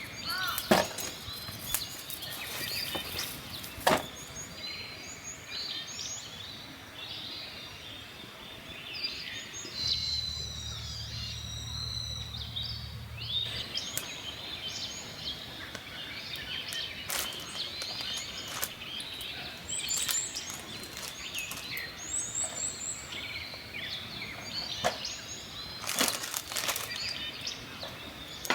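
Wood campfire crackling with scattered sharp pops, while small birds chirp and call. A low hum joins for a few seconds in the middle.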